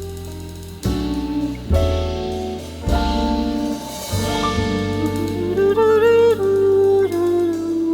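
Jazz band playing the closing bars of the song: held melody notes over bass and drums, one note wavering with vibrato about six seconds in, then a last long held note as the piece winds down.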